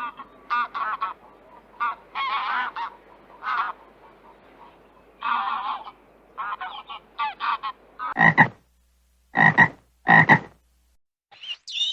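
Animal calls: many short pitched calls in quick, irregular succession for about eight seconds, then three louder, deeper calls about a second apart.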